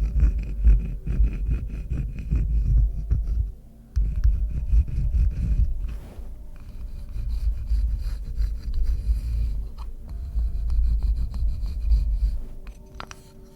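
Close-miked scratching on pine wood: a dense, rasping scrape with fine clicks, pausing briefly about four seconds in and fading out near the end.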